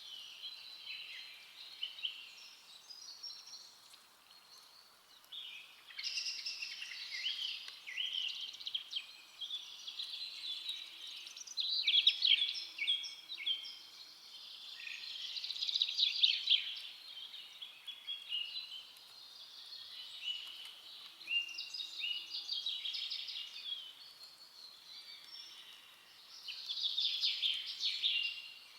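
Several songbirds singing in a forest, a steady chorus of chirps, trills and whistles that swells and fades every few seconds over a faint background hiss.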